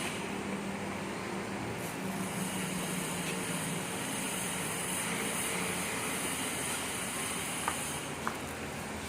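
Volvo FM 370 truck's diesel engine running steadily with an even hum. Two short clicks come near the end.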